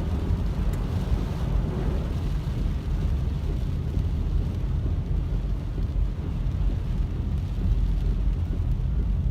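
Steady low road and engine noise heard inside a moving car's cabin, with tyres running on a rain-soaked road.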